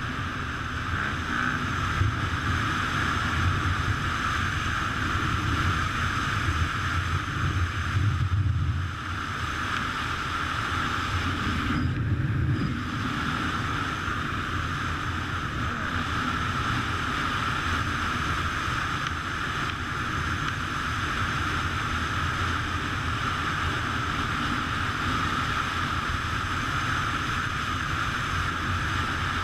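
Steady wind rushing over the microphone of a camera on a moving motorcycle, with a low rumble underneath that swells a little around eight and twelve seconds in.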